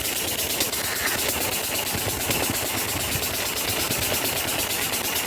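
Petter-type diesel engine of a tube-well pump running steadily after being started, with an even, rapid beat.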